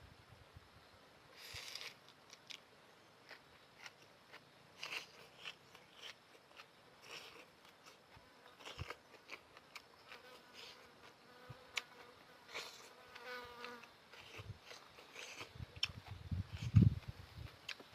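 Noodles being eaten close to the microphone: scattered wet mouth clicks, chewing and short slurps. A faint buzzing tone runs for a few seconds in the middle, and a loud low thump comes near the end.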